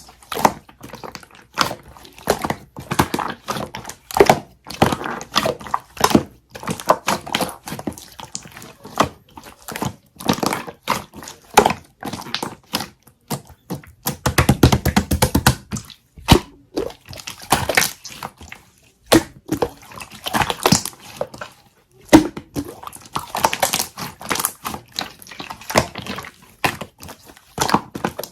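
Jelly slime being squeezed and pressed by hand, giving a stream of sticky clicks, pops and crackles, with a denser run of rapid crackling about halfway through.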